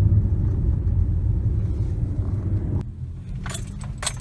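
Low, steady rumble of a car on the road, heard from inside, which cuts off abruptly about three seconds in. After it, a quieter stretch with a few light clicks near the end.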